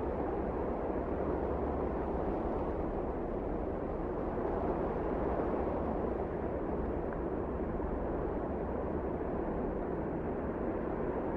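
Wind blowing steadily, a low, even rushing with no breaks or distinct gusts.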